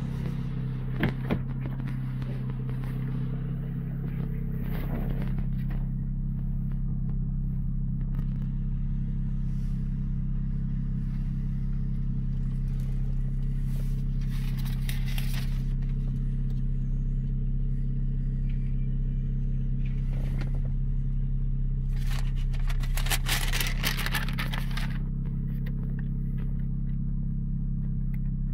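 Honda J30A 3.0-litre V6 running at a steady idle. A few brief scraping or rustling noises come and go, the longest about two-thirds of the way through.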